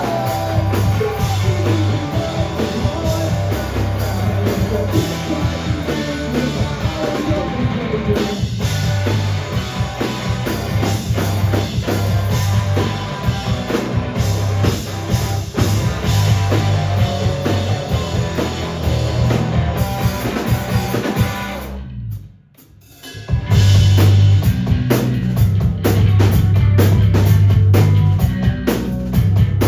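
Live rock band playing, with the drum kit prominent over guitar and bass. About 22 seconds in the band stops for roughly a second, then comes back in louder.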